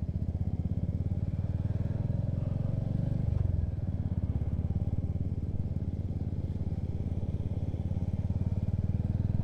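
Motorcycle engine running steadily while riding along, its low pulsing note shifting about three seconds in.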